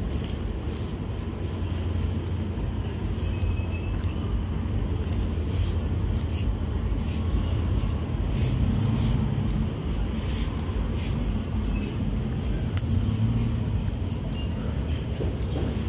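Steady low rumble of road traffic, swelling slightly now and then, with scattered faint clicks.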